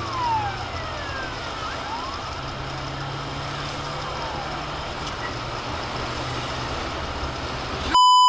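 Emergency vehicle siren wailing in slow rising and falling sweeps over steady road and engine noise, fading after about five seconds. Right at the end a loud, steady electronic beep starts abruptly.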